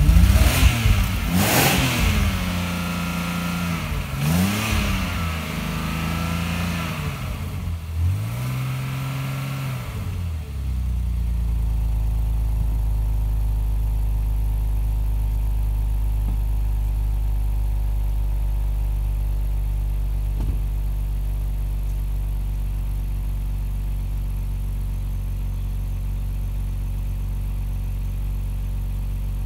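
BMW M54 inline-six engine heard at its twin tailpipes just after a decoking treatment: revved briefly three times in the first ten seconds, then settling into a steady idle.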